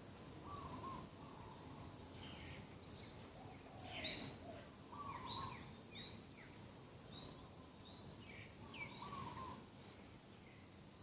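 Morning birdsong: doves cooing in short low phrases about every four seconds, with smaller birds giving quick, high, falling chirps throughout.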